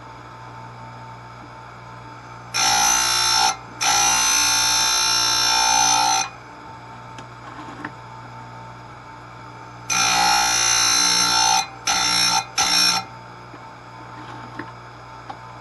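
Electric chain grinder's motor running steadily while its spinning disc grinds chainsaw chain teeth in five passes, each a loud, high whine lasting from a fraction of a second to about two seconds. The grinds are light skimming touch-ups of lightly dulled teeth.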